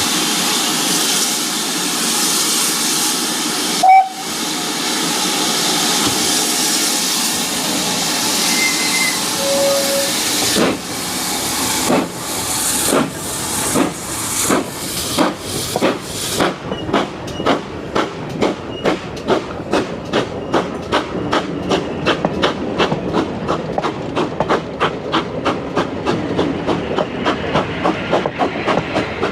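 Steam locomotive standing and hissing steam, with one short loud blast about four seconds in. It then pulls away: exhaust chuffs start slowly, about one a second, and quicken to several a second as it gathers speed.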